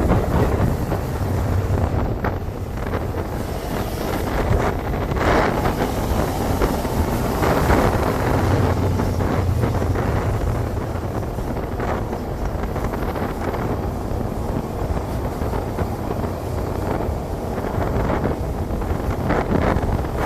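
Wind buffeting the microphone in a steady low rumble, with gusts surging every few seconds, as from riding a bicycle into the wind.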